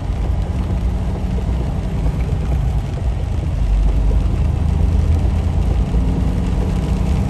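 Semi-truck driving at speed, heard from inside the cab: a steady low engine drone with road and tyre noise.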